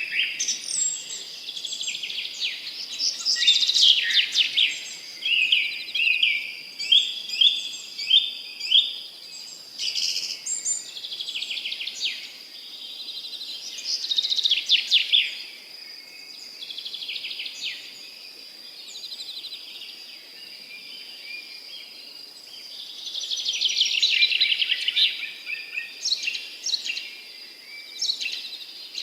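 Several songbirds singing and calling together in a dawn-chorus mix of chirps and trills, including a run of quick repeated notes, with a steady thin high tone underneath.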